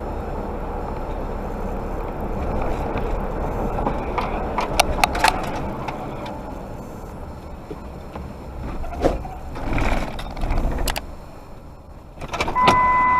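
Road and engine noise from a moving car, with several sharp knocks through the middle. Near the end comes a steady beep of about a second.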